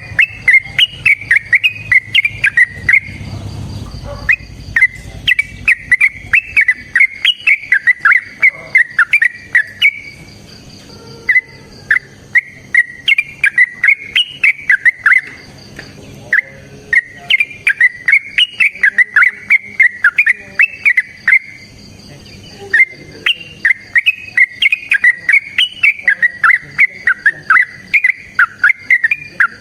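Yellow-vented bulbul (trucukan) singing loudly in long runs of rapid, bubbling chattering notes. The runs come in bouts of a few seconds, broken by short pauses.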